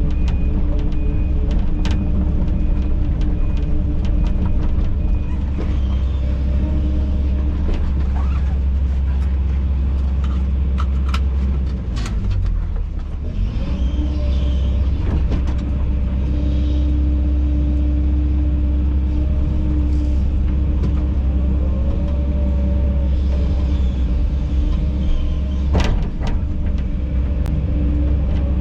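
Kobelco SK210 excavator's diesel engine running steadily with a loud low rumble, a beeping alarm sounding for about the first five seconds. Scattered knocks and clunks sound over the engine, loudest about 26 seconds in.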